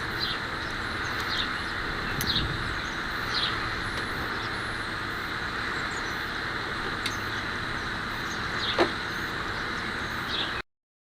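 Outdoor background noise with a bird calling over and over, short falling chirps about once a second, and one longer falling call near the end. A single sharp crack comes right at the start, and the sound cuts off suddenly shortly before the end.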